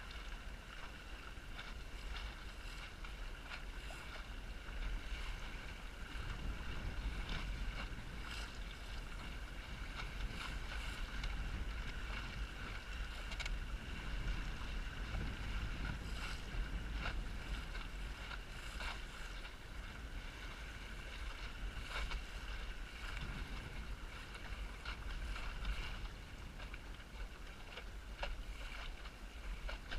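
Strong wind buffeting the microphone aboard a small Snark sailboat in high wind, with water splashing and slapping against the hull. A steady high whine runs underneath.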